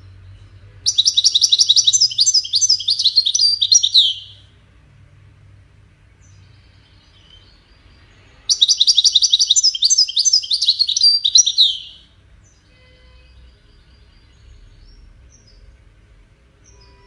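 European goldfinch singing a Widani-style song, used to tutor goldfinch chicks: two phrases of about three seconds each, fast high twittering notes that end in downward-sliding slurs.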